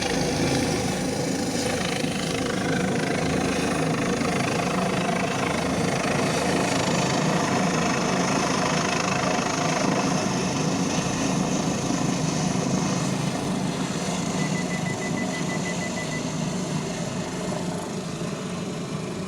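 Emergency medical helicopter taking off and departing: steady rotor and turbine noise, easing slightly toward the end as it moves away.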